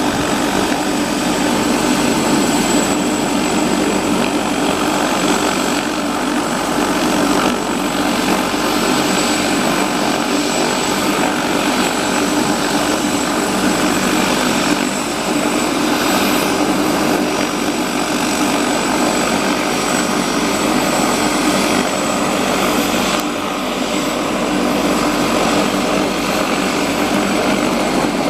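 Helicopter turbine engine running during start-up, a continuous loud sound with a steady high whine.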